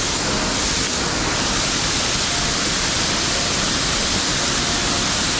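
Mountain stream water rushing steadily, a loud, even hiss of flowing water.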